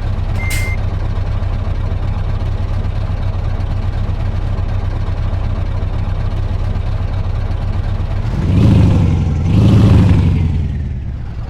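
Scania truck's V8 diesel engine running steadily, then revved twice in quick succession near the end, each rev rising and falling in pitch. A last reversing beep with a click sounds at the very start.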